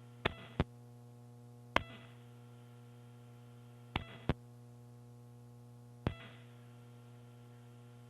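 Steady electrical hum on a launch communications audio loop, broken by six short clicks, some in pairs, typical of a microphone being keyed on and off.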